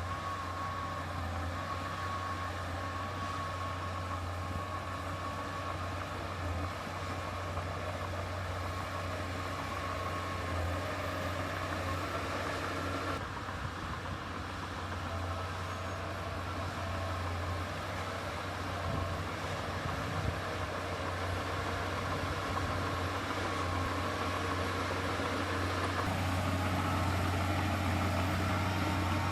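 Heavy diesel earthmoving machinery running steadily, a low engine drone with a thin whine over it, growing slightly louder near the end.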